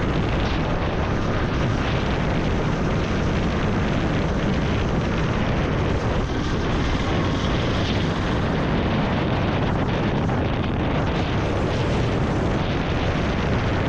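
Vintage Yamaha motorcycle engine running steadily during a ride, a low rumble mixed with wind rushing over the microphone.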